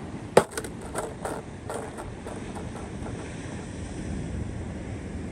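One sharp, loud knock, then a handful of lighter knocks and clicks over the next two seconds, over a steady low rumble of outdoor wind noise.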